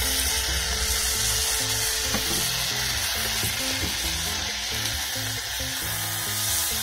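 Chicken pieces and capsicum sizzling steadily in a frying pan as soy sauce goes in and a wooden spatula stirs them, with background music underneath.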